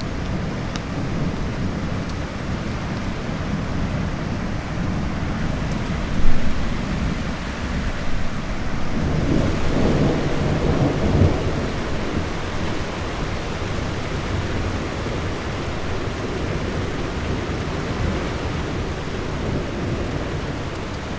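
Thunder rumbling over steady rain, with a louder roll of thunder swelling about halfway through.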